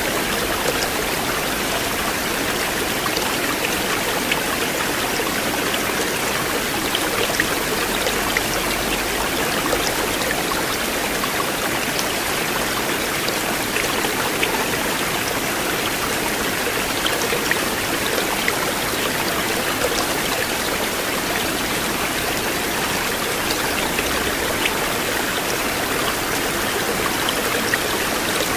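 A river flowing steadily, its water a continuous rush with scattered small splashes.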